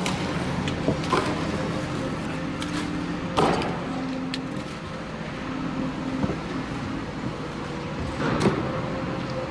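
An engine running steadily at idle, with a few short knocks and clunks.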